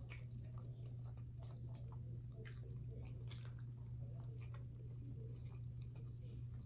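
Close-miked chewing of a mouthful of meat, with small wet mouth clicks scattered throughout, over a steady low hum.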